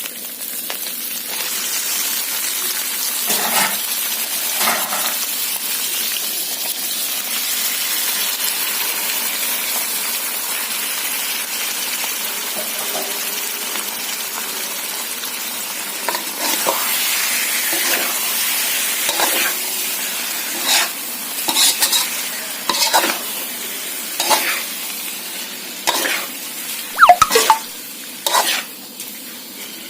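A stir-fry sizzling in a hot pan, with a steady frying hiss. From about halfway through, a spatula scrapes and clanks against the pan in repeated sharp strokes as the food is stirred.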